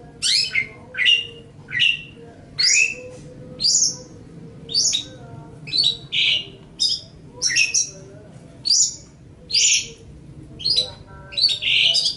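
Long-tailed shrike (cendet) singing a run of short, sharp chirping notes, about one or two a second, many sliding down in pitch.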